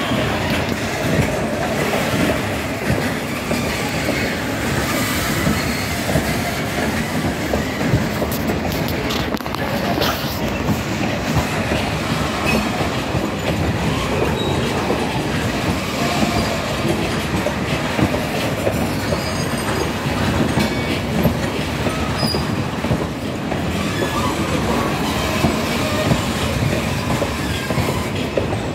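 A goods train's covered box wagons rolling past on the track: a steady rumble with the clatter of wheels over rail joints and short high squeals from the wheels here and there.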